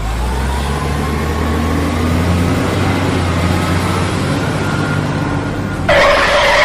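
Heavy vehicle engine running with a steady low drone, with a faint whine rising and falling above it. About six seconds in, a louder, higher-pitched sound cuts in suddenly.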